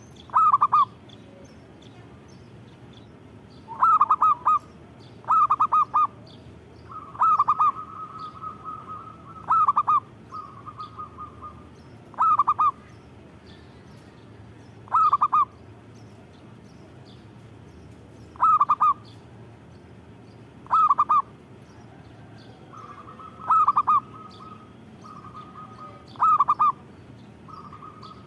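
Zebra dove (perkutut) cooing: about eleven short, rolling coo phrases, one every two to three seconds, with a steadier held note running under some of them.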